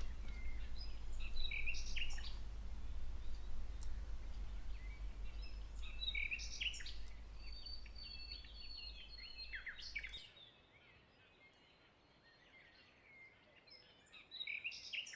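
Birdsong: several birds chirping and whistling in short, quick calls over a low steady hum. About ten seconds in the hum stops and the birdsong turns faint, with a last short burst of chirps near the end.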